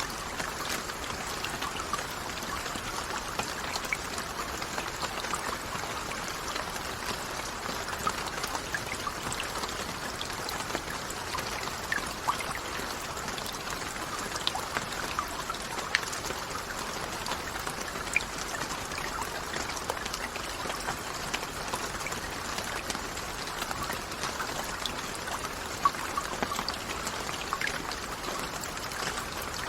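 Steady rain falling, an even hiss of water dotted with many separate drop ticks, with no let-up.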